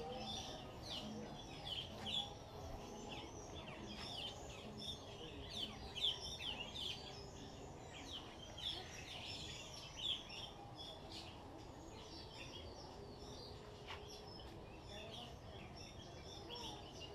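Many small birds in a walk-through aviary chirping and calling at once, a dense, continuous stream of short, high chirps and quick downward notes.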